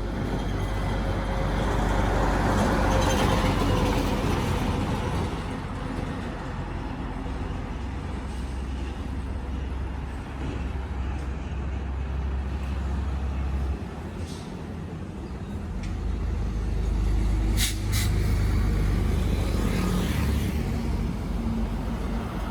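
Highway traffic with heavy trucks and cars driving past: a steady low engine and tyre rumble. It swells as a vehicle passes close about three seconds in and again near the end, with a brief sharp hiss or click just before the second swell.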